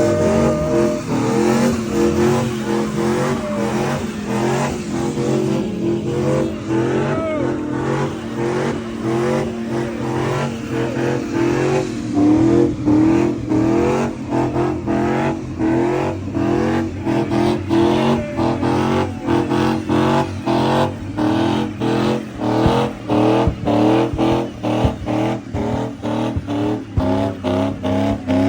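Car engine revving hard over and over, its pitch sweeping up and down, with tyres squealing in a burnout. The revving becomes faster and choppier toward the end.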